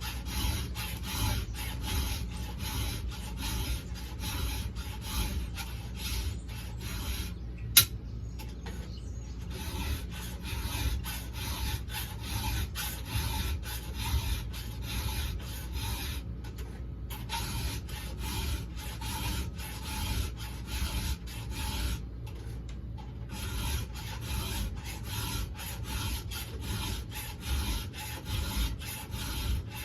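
A 7/32 round file rasping stroke after stroke across the cutters of a chainsaw chain, hand sharpening, with brief breaks in the filing about 8, 16 and 22 seconds in. A single sharp click about 8 seconds in.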